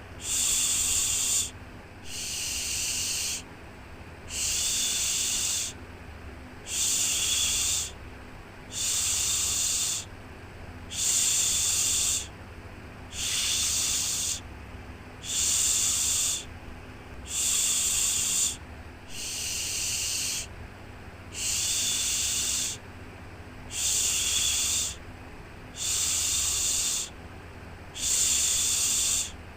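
Rhythmic shushing, a soft 'shhh' repeated about once every two seconds, each lasting a little over a second, over a faint steady low hum.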